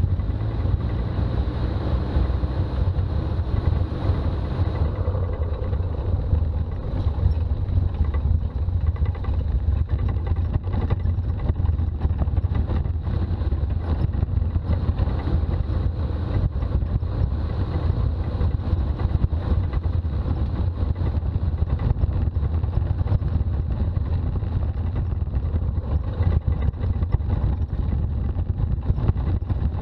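Toyota BJ40 Land Cruiser on the move: steady low diesel engine and road rumble, with frequent small knocks and rattles.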